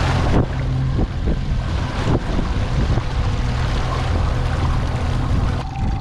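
Boat motor running steadily while under way, with wind rushing over the microphone; the wind hiss eases about half a second in.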